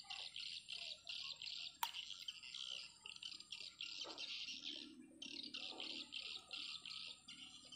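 A bird chirping over and over, short high notes about three times a second, with one sharp click about two seconds in.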